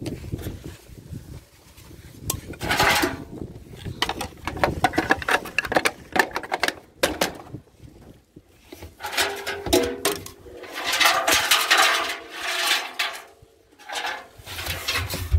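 Irregular metallic clattering and clanking from a washing machine being wrecked: many sharp knocks, some with a short ring, coming in thicker bursts about a few seconds in and again past the middle.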